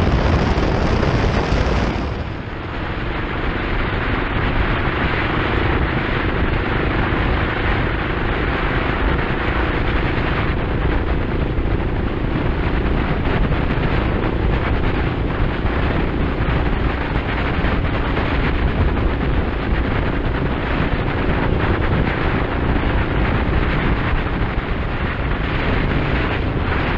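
Motorcycle riding at speed: loud wind rush on the microphone over a steady engine drone, with the sound changing about two seconds in.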